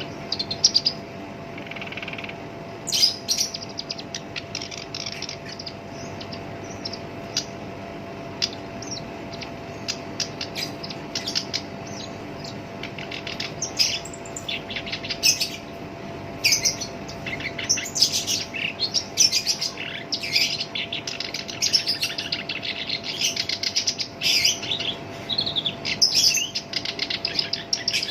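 Black-browed reed warbler singing: long runs of rapid, rough chattering notes with short pauses between phrases, over a faint steady hum.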